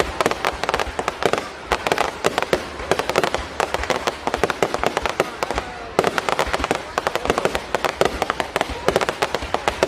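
Fireworks going off in a dense, rapid string of bangs and crackles, many per second without a break.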